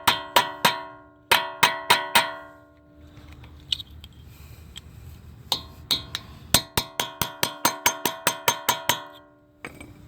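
Hammer striking a steel center punch against the staked collar of a CV axle nut, each hit ringing metallically: a few blows near the start, a short pause, then a fast run of about four hits a second that stops near the end. The hits are knocking the punched-in areas of the nut out of the axle shaft's slots so the nut will not grab as it comes off.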